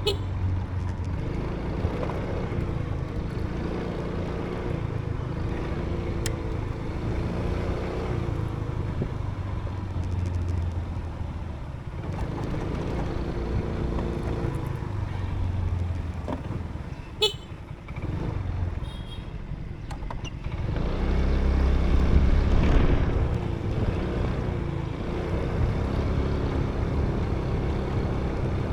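Motorbike engine running while riding, its pitch rising and falling as the speed changes. A brief high-pitched toot comes about two-thirds of the way through.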